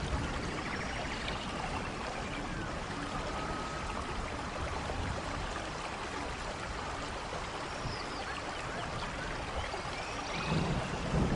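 Steady rainfall, an even wash of water noise with a few faint high chirps over it. A low rumble of thunder starts to build near the end.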